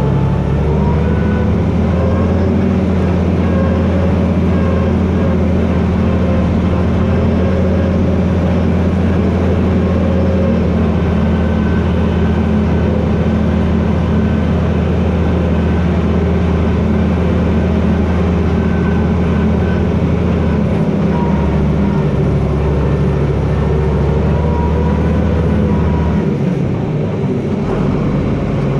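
John Deere 4320 tractor's six-cylinder diesel engine running steadily under throttle, its pitch shifting about three-quarters of the way through and falling off near the end.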